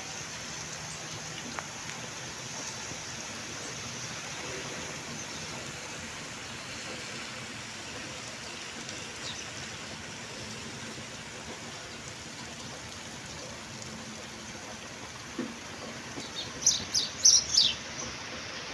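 Steady hiss of rain falling. Near the end, a bird gives a quick run of sharp, high chirps, the loudest sound.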